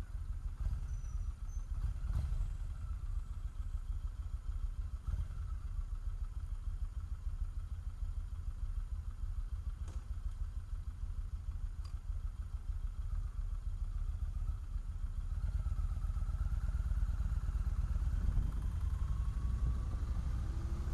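Motorcycle running on the move, with a steady heavy low rumble; a faint engine tone rises near the end.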